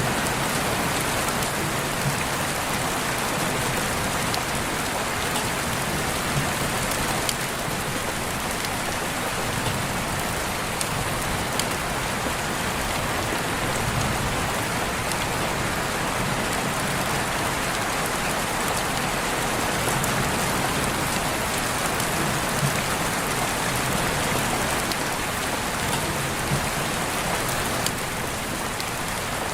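Steady heavy rain falling, with scattered individual drops ticking against nearby surfaces.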